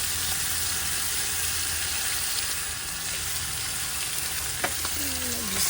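Chicken pieces sizzling steadily as they fry in hot curry in a pot over a wood fire, with one sharp click a little over four seconds in.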